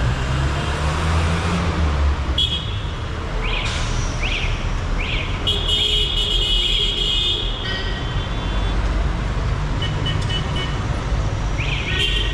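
Busy city street traffic: engines and tyres running steadily, with car horns honking over it, several short honks and one long honk around the middle.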